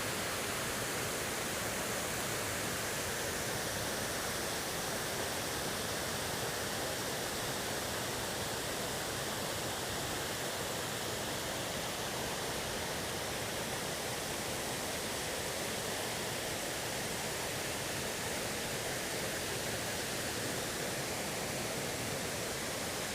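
Overflow water from a lake rushing steadily, an even unbroken rush.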